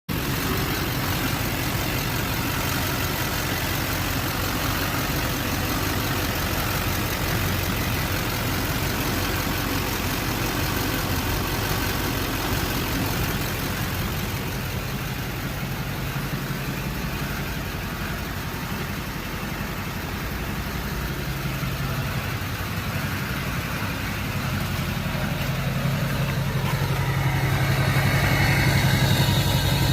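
An engine running steadily at idle, growing louder over the last few seconds.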